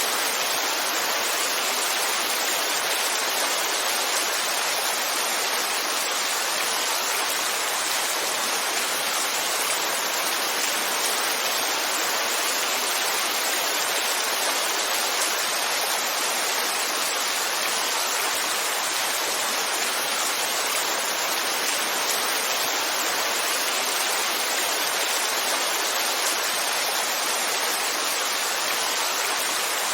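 Heavy rain falling in a steady, even hiss that never changes.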